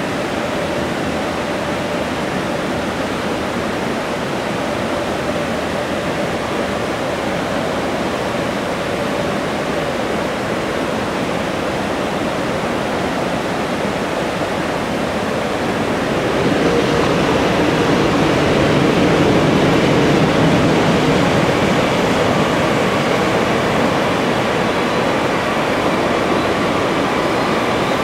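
Electric freight train running past at a distance: a steady rushing rumble that grows louder about sixteen seconds in, with a steady whine over it.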